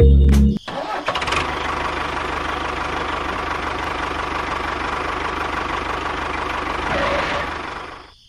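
Tractor engine sound starting up and running at a steady chugging idle, fading out just before the end.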